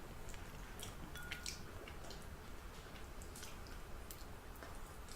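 Faint, close-miked chewing of fried chicken: scattered soft, wet mouth clicks and smacks at irregular intervals.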